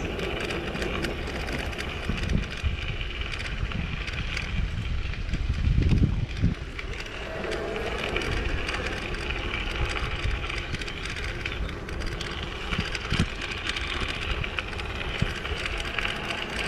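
E-bike riding along with steady tyre and road noise and wind buffeting the microphone in gusts, the strongest about six seconds in.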